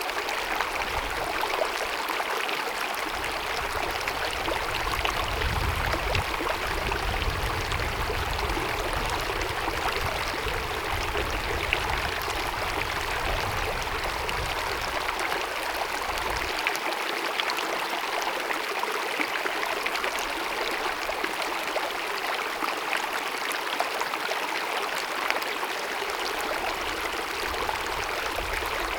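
Glacier-fed mountain meadow stream cascading, a steady babbling rush of water. Under it a low rumble runs for the first half or so and stops suddenly about sixteen seconds in.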